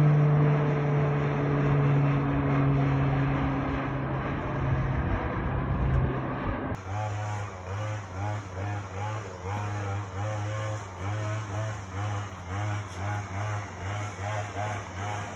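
Aircraft engine noise with a steady low hum under a loud rushing sound, easing slightly as it goes. About two-thirds of the way in it cuts off abruptly to a quieter, rhythmic pulsing about twice a second.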